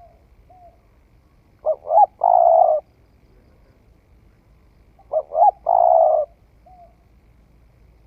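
Spotted dove cooing: two loud phrases about three and a half seconds apart, each two short notes followed by a longer coo. Softer short coos come between them.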